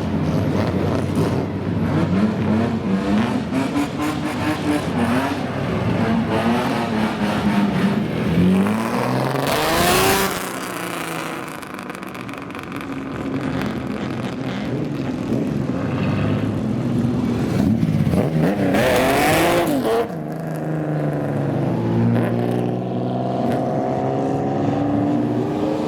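Loud car engines with straight-through exhausts revving in repeated blips, the pitch climbing and falling every second or two. Two loud rushes stand out about ten and nineteen seconds in, and about twenty seconds in the sound changes abruptly to another engine revving in steady climbs.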